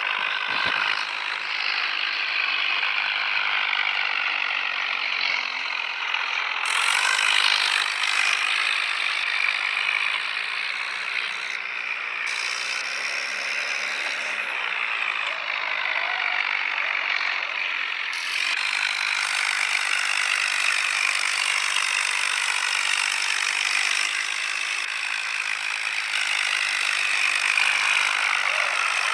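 Tractor engine running steadily, with a dense mechanical clatter.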